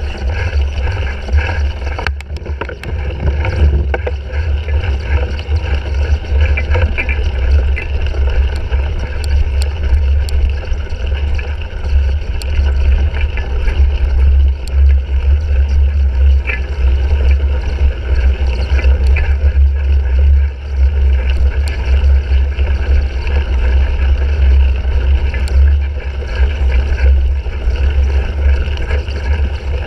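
Steady low rumble of wind and riding noise picked up by a handlebar-mounted GoPro Hero 3 as a cyclocross bike is raced over rough ground, with scattered clicks and rattles from the bike.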